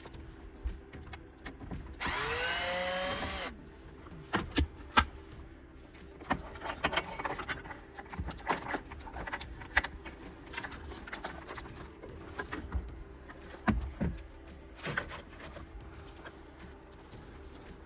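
A power drill-driver runs once for about a second and a half, its whine rising as it spins up and then holding, as an aftermarket car radio is taken apart. Scattered clicks and knocks of small parts and tools being handled follow.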